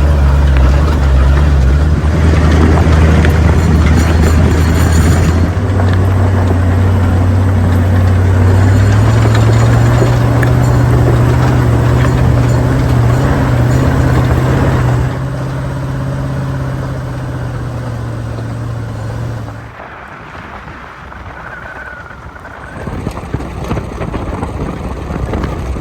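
Vehicle engine running on a dirt trail, a loud low drone whose pitch steps up twice as it picks up revs, then eases off about fifteen seconds in and dies away near twenty seconds, leaving a quieter rumble.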